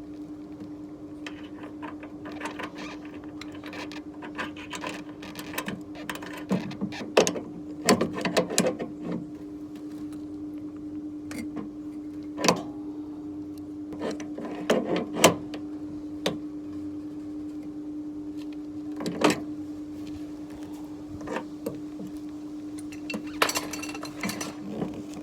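Scattered sharp clicks and knocks of hand work on parts and tools over a steady machine hum at one pitch.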